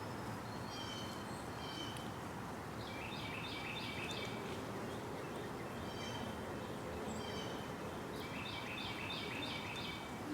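Songbird singing in the yard: a short phrase of a few high notes, then a quick run of about six repeated notes, the pattern given twice, over a steady background rumble of outdoor noise.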